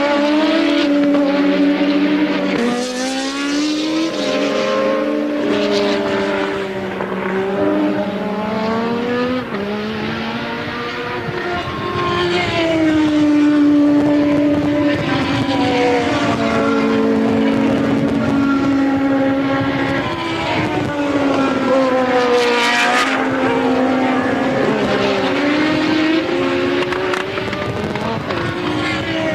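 1983 Formula One car engines revving, the pitch rising and dropping again and again with the gear changes, several engine notes overlapping. A brief sharp crackle comes about three quarters of the way through.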